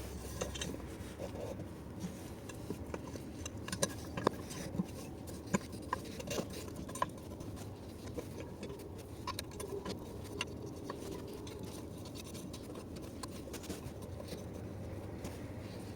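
Small metal engine parts being handled during assembly: scattered light clicks and taps with some rubbing, over a steady low background hum.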